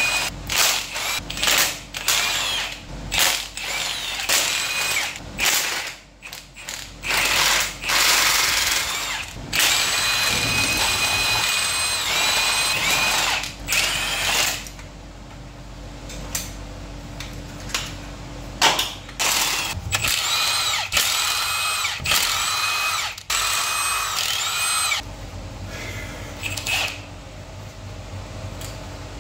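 Handheld electric drill-driver run in many short trigger bursts and a few longer runs, its motor whine rising and falling in pitch as it spins up and slows. It is being used to undo the bolts holding the engine block to the gearbox.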